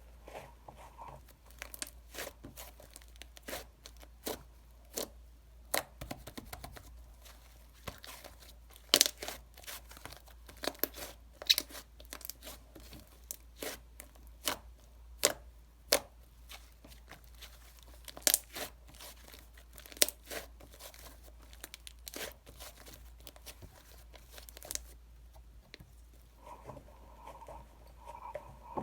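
A chocolate wrapper being torn open and crinkled by hand: a long run of sharp, irregular crackles and rips, densest in the middle, which die away a few seconds before the end.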